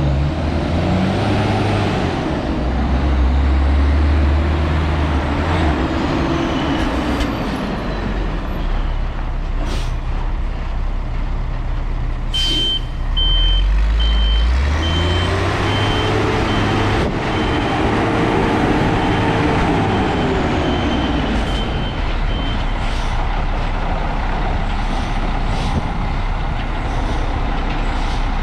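Engine of a 2013 XCMG QY100K-I truck crane running, revved up and back down twice. From about halfway through, a high warning beeper sounds in a steady series for around ten seconds, with a few short sharp noises scattered through.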